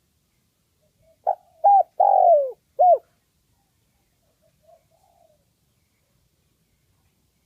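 Spotted dove cooing: one quick phrase of four coos, the third drawn out and falling in pitch, followed by a few faint soft notes.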